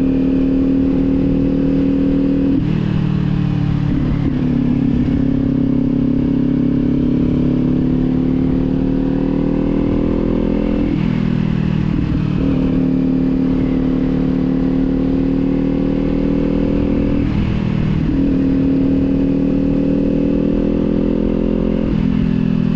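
Kawasaki sport bike engine running through a Leo Vince aftermarket exhaust while cruising, with wind rumble on the microphone. The engine note climbs slowly, then drops away briefly and picks up again about four times.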